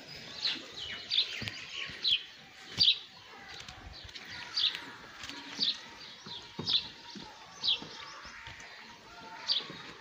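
A small bird chirping: short, high notes repeated roughly once a second.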